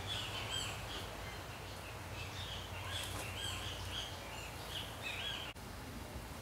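Small birds chirping: short, repeated high calls over a steady low rumble, with a brief sharp dropout about five and a half seconds in.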